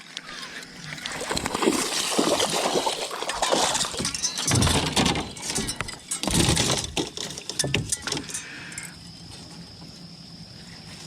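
Knocks, rattles and water splashes of a freshly caught bass and fishing gear being handled in a small boat, busiest for the first eight seconds and then dying down to a faint steady high tone.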